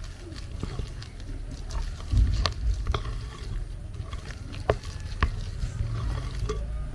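Hand-mashing of cooked plantain in a bowl: a low, rough rumble of working and handling, with a few sharp knocks of the utensil against the bowl.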